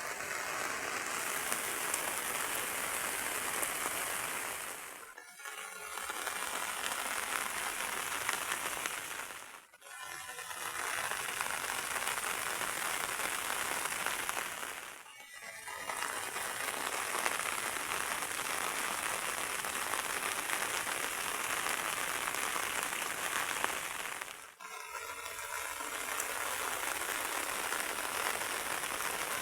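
Heavy rain falling in a steady, dense hiss that drops away briefly four times, every five to ten seconds.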